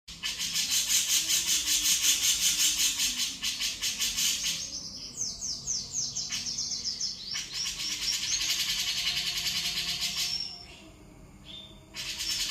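Cucak jenggot (grey-cheeked bulbul) singing vigorously: a fast run of rapid, high repeated notes, then a series of quick downward-sliding chirps. After a short lull near the end, the rapid notes start again.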